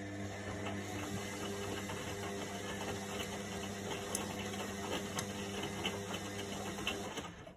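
Indesit washing machine running at the start of its wash programme: a steady motor hum with light rattling and clicks, cutting off near the end.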